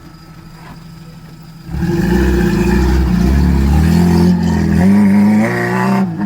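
Off-road vehicle's engine suddenly revving hard under load about two seconds in, as it powers up a rutted, dug-out climb. Its pitch wavers and rises near the end, then it lets off sharply.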